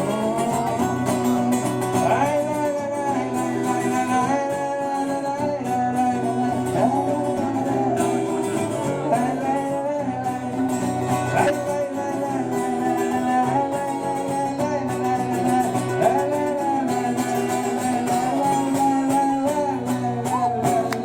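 Live band music: guitar chords with a gliding melody line over them, with no sung words.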